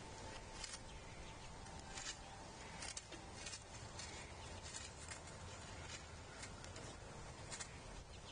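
Outdoor ambience at a feeder: a steady low background hiss with irregular short taps and clicks, roughly one every second or so. A faint steady high tone sounds for the first few seconds, then fades.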